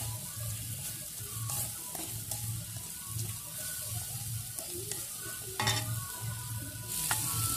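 A metal spatula stirs and scrapes a thick spice paste (masala) frying in a metal kadai. A soft sizzle runs under a few sharper scrapes against the pan, the clearest about a second and a half in and near the six-second mark.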